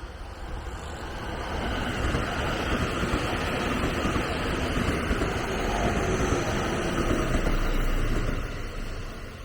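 A train passing by: a rushing, rumbling noise that builds over the first two seconds, holds for several seconds and fades near the end.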